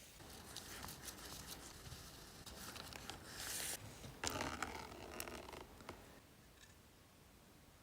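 Faint irregular scraping and rustling of hand work, with a short hiss a little past three seconds in and a few sharp clicks.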